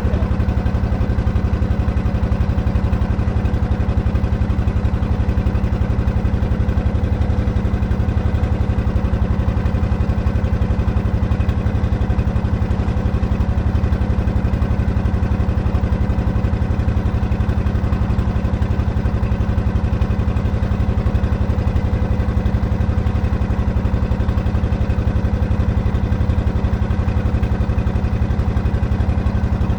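An engine running steadily at an even speed, with a constant low drone that does not rise or fall.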